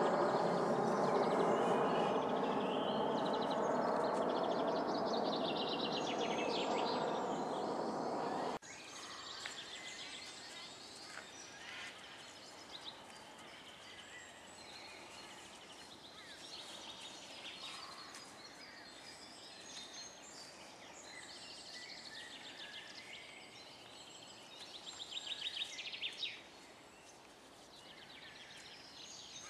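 Small birds singing and chirping outdoors, with a louder rapid trill near the end. For the first third a louder steady drone of several held tones plays over them, then cuts off suddenly.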